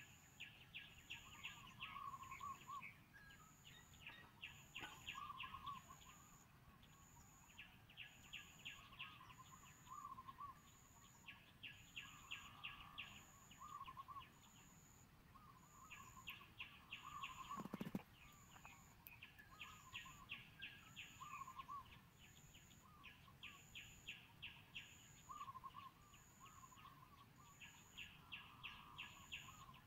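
Faint outdoor birdsong: short bursts of rapid trilling and warbling chirps repeating every second or two, over a high, even note that pulses about once a second. A single soft low thud comes about two-thirds of the way through.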